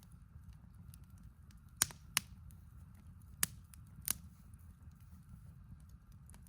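Four short, sharp clicks or snaps, spread over a couple of seconds, above a low steady rumble.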